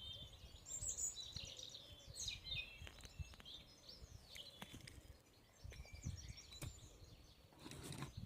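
Small birds chirping and singing in the background, short repeated chirps, with a few faint knocks and clicks of small objects being handled.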